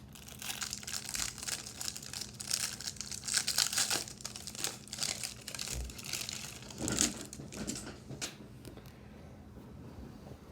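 Wrapper of a 1992-93 Upper Deck basketball card jumbo pack being crinkled and torn open by hand. Dense crinkling for about eight seconds, then only a few light ticks near the end.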